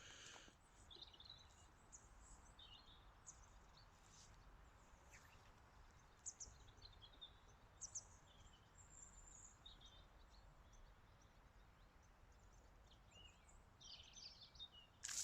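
Near silence outdoors: faint birdsong, scattered short chirps every second or two over a low steady background hum.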